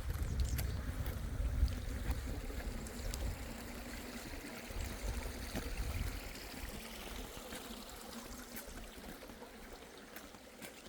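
Steady trickle of running water, with a low rumble under it that fades out about halfway through.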